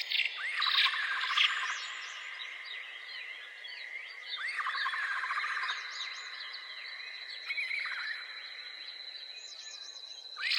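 Several birds chirping and singing, with a buzzy trilled phrase repeated three times, every three to four seconds, among many short high chirps. A thin steady high tone runs underneath.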